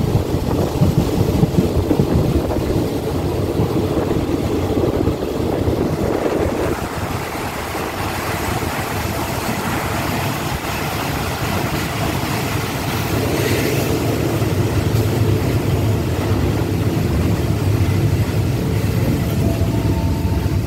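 Express passenger train running into a station, heard from an open carriage door: a steady rumble of wheels and running gear on the rails, heavier and rougher for the first six seconds, then smoother and a little quieter.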